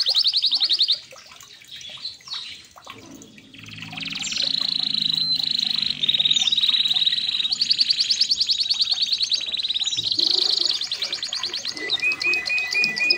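Red canary singing fast rolling trills. A burst of song stops about a second in, and after a short pause the song starts again at about four seconds and runs on in long rapid trills with gliding notes.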